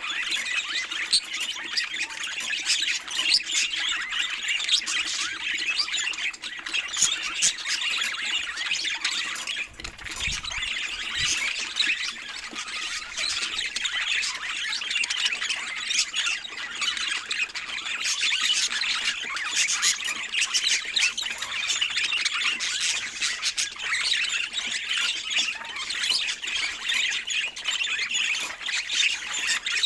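A group of budgerigars chattering continuously: a dense mix of warbling, chirps and squawks.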